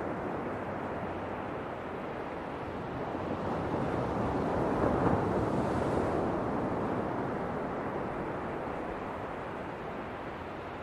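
Ocean waves washing in, swelling to a peak about halfway through and then receding.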